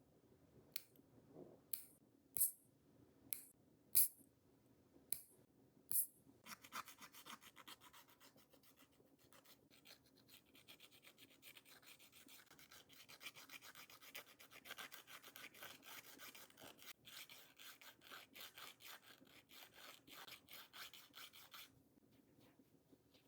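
A nail file rasping in quick back-and-forth strokes across fingernails, shaping them. It is preceded for the first several seconds by a series of sharp separate clicks, and the filing stops shortly before the end.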